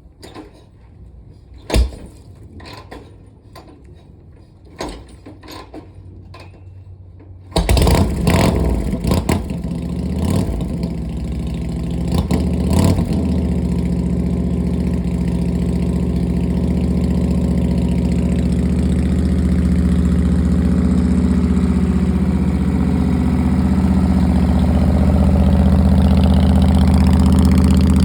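Harley-Davidson Shovelhead V-twin engine being started: a few clicks and knocks, then the engine catches about seven seconds in, is revved several times, and settles into a steady idle as it warms up.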